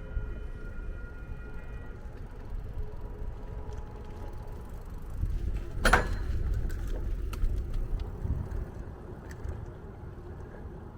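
Low rumbling road and traffic noise while riding a bicycle along a street. A steady whine with several tones stops about two seconds in, and there is a single sharp clack about six seconds in.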